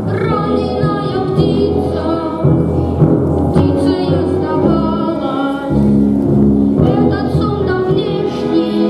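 Music: a children's choir singing with a full instrumental accompaniment.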